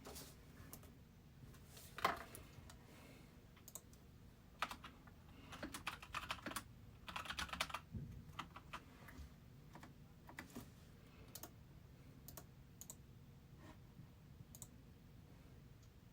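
Faint typing on a computer keyboard in irregular flurries, with a denser run about six to eight seconds in, over a low steady hum.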